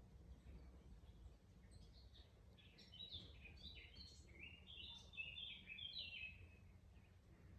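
A songbird singing faintly: a quick, jumbled run of short high notes from about two seconds in until near the end, over a steady low rumble.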